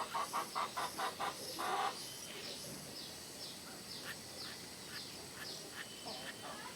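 Birds calling: a fast run of calls, about five a second, that stops about two seconds in, followed by faint high chirps, each falling in pitch, about two a second.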